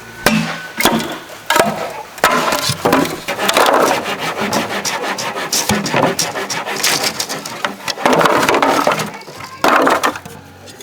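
Wood being worked by hand: a few sharp knocks, then long rasping strokes like cutting or scraping.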